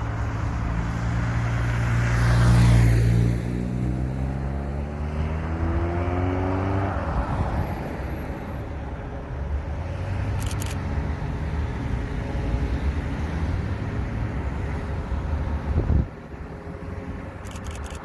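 Heavy truck engine running as the truck goes by, loudest a few seconds in, with its engine note sliding down in pitch as it moves off. Its rumble carries on steadily and drops away suddenly near the end.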